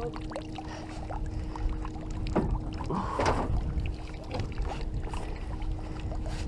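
Rumbling wind and water noise in a small boat, under a steady low hum, with scattered knocks and handling sounds from the hull; a brief muffled burst comes about three seconds in.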